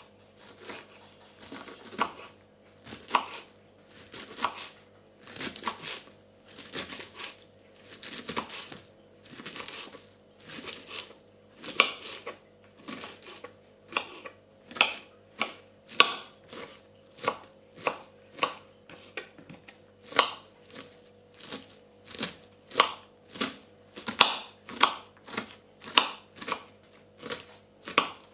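Knife chopping food on a cutting board: a long run of sharp strokes that quicken to about two a second in the second half.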